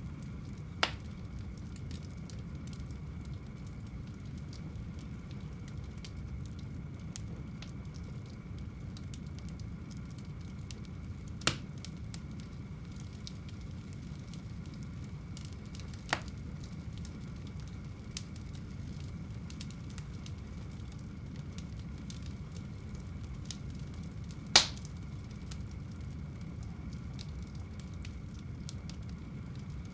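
Wood fire burning in a home fireplace: a steady low rush of flames with small crackles, and four sharp pops of the burning logs, the loudest about two-thirds of the way through.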